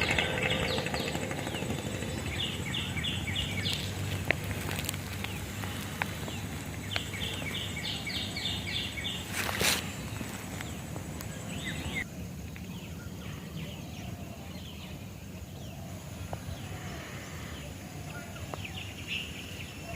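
Outdoor ambience: a bird calls in two quick runs of repeated high notes over a low steady machine hum, with a short burst of noise about halfway through; the background changes abruptly after that.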